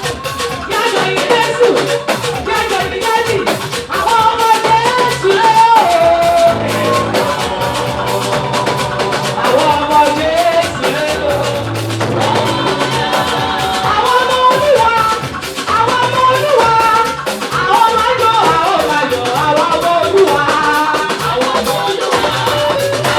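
Live gospel praise band playing up-tempo music with drum kit and percussion, with a wavering melody line over it that is probably voice.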